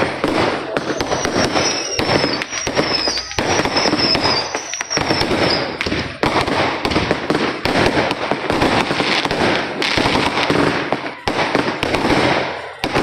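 Dense, unbroken crackling and banging of many fireworks and firecrackers going off at once. A high, thin whistle falls slowly in pitch through the first half.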